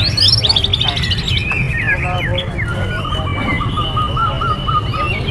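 Many caged songbirds singing and chirping at once in overlapping calls. About halfway through, one bird holds a long steady whistle while another repeats a short trill, all over a steady low rumble of background noise.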